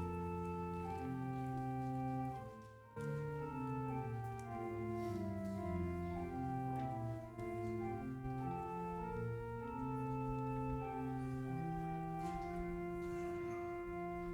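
Church organ playing slow, held chords that change every second or so, with a short break between phrases about three seconds in.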